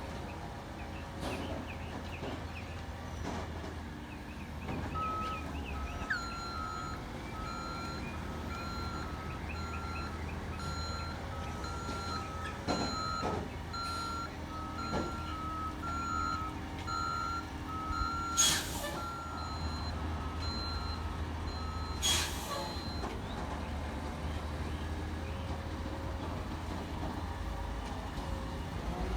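Garbage truck running with its backup alarm beeping steadily for most of the time, starting about five seconds in and stopping near the end. Two short, loud air hisses come toward the end of the beeping, like air-brake releases.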